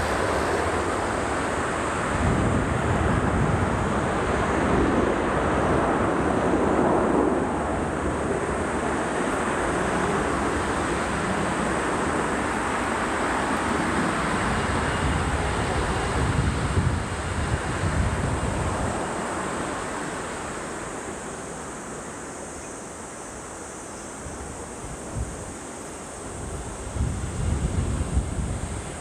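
Jet airliner noise, loud at first and slowly fading away, mixed with strong gusty wind buffeting the microphone.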